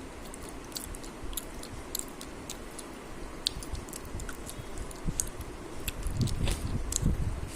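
A person chewing food close to the microphone, with many small crisp clicks and crunches, and heavier low mouth sounds about six seconds in.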